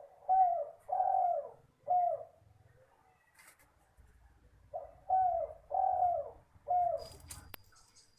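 Spotted dove cooing: two phrases of four coos each, the second beginning about halfway through.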